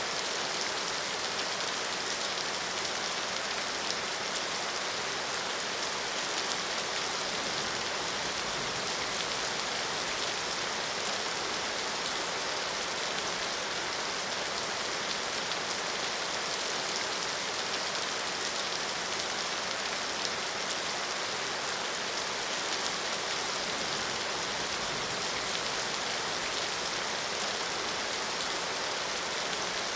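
Steady rain falling on a surface, an even hiss of many drops without pause or change.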